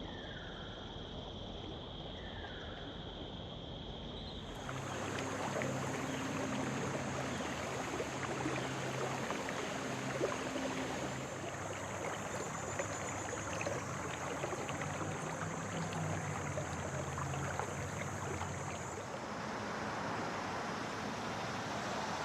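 Outdoor background noise that changes twice. First comes a steady high whine with two short falling bird chirps. From about four seconds in, a louder steady rushing noise with a low hum takes over, like distant traffic or moving water.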